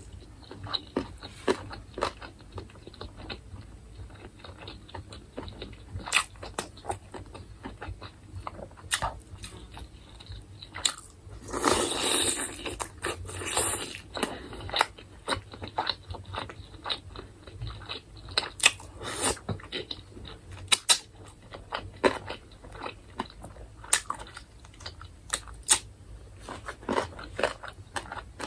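Close-up eating of chicken: chewing with frequent sharp crunches, bites and mouth smacks. About twelve seconds in there is a louder, rougher stretch of about two seconds.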